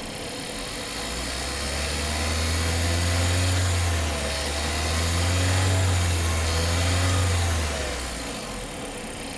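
Opel Insignia B's 1.6-litre four-cylinder turbo petrol engine (D16SHT) running, with a deep droning vibration that builds about a second in, swells twice and fades away near the end. The engine bay has a rattle and a rough shake at idle that the dealer has not yet traced.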